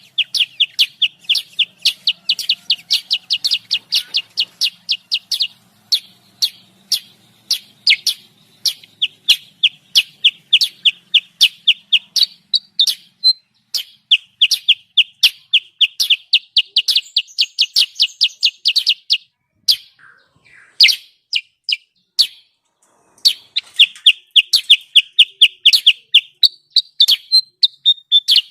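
Kutilang sutra, a bulbul, giving an agitated, noisy lure call: long runs of sharp, rapid chirps at several a second, broken by a few short pauses, with a stretch of scattered notes about two-thirds of the way in.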